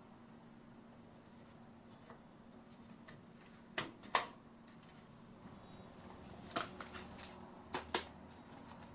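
Sharp plastic clicks of DDR5 memory modules and their slot latches snapping into a motherboard's DIMM slots: two quick clicks a bit under four seconds in, then a few lighter clicks later.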